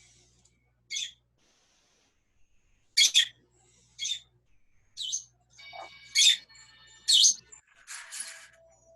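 Pet parrots giving short, sharp, high-pitched chirps and squawks, about one a second with gaps, some in quick pairs and a longer, rougher squawk near the end.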